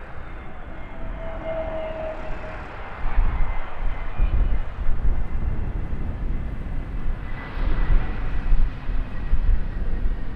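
Airliner engines passing, with faint falling whines early on and a deep rumble that grows louder about three seconds in and continues.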